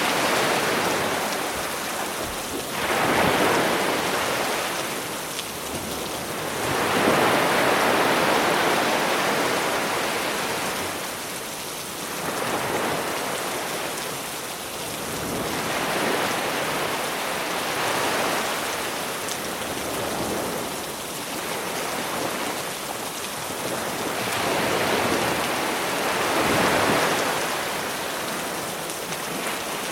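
Sea waves washing onto the beach in slow surges every four to five seconds, under a steady hiss of rain mixed in from a separate recording.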